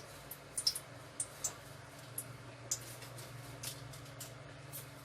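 Cooking oil heating in a pan, giving faint, scattered crackles and pops at irregular moments over a steady low hum.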